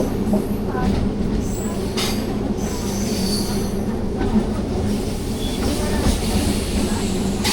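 Passenger train running along the track with a steady low rumble of wheels and coach, and thin high wheel squeals in the middle.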